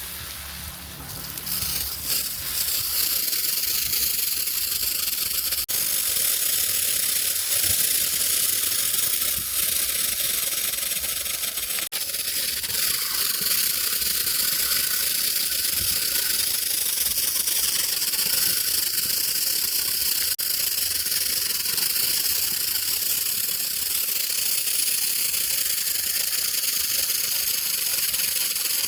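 Steady, loud hissing spray aimed at the model car, which settles in about two seconds in and holds without a break.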